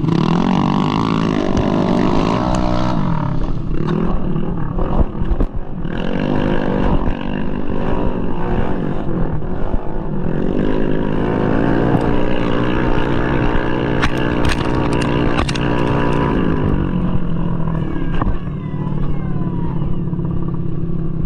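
Engine of a tuned 200cc bore-up Mahindra Rodeo moped scooter revving under race throttle, its pitch climbing and falling as the rider accelerates and backs off, with a brief drop in level about five seconds in. A few sharp clatters come in the middle.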